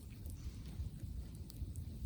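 Wind buffeting the microphone as a steady, uneven low rumble, with a few faint sharp clicks.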